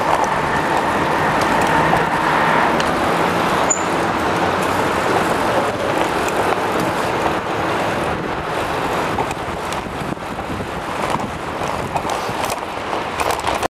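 Steady rush of road and city traffic noise heard from a bicycle riding fast through city streets, with a few faint clicks.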